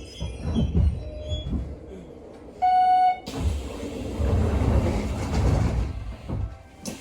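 Inside a Hanshin 9000 series electric train at the end of its run into a station: low rumble with the last faint inverter tones dying away as it stops. A short steady electronic tone sounds about two and a half seconds in, then a hiss and rumble follow, and there is a sharp click near the end.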